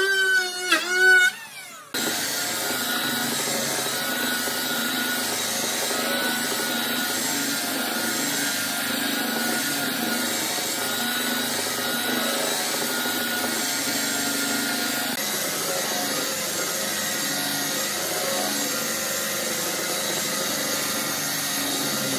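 A power tool running steadily as it cuts or abrades solid wood: a dense, even noise with a faint steady whine. It comes in suddenly about two seconds in, after a brief, louder pitched sound that slides up and down.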